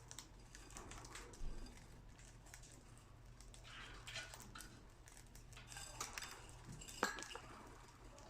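Budgerigars pecking at millet in a dish: faint, scattered clicks and taps of beaks on seed and dish, with a sharper click about seven seconds in.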